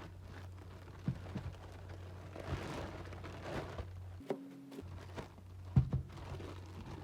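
Packaging being handled during an unboxing: light rustling and scattered small knocks, with one louder knock about six seconds in, over a low steady hum.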